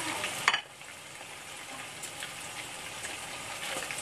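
Mantis shrimp frying in oil in a wok, giving a steady sizzle with scattered small crackles. A sharp click about half a second in, after which the sizzle is quieter.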